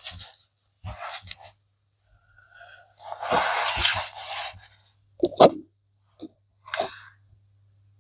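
Akita Inu dog snoring in its sleep, in irregular noisy breaths: short ones at first, a long one about three seconds in, then a few short sharp ones.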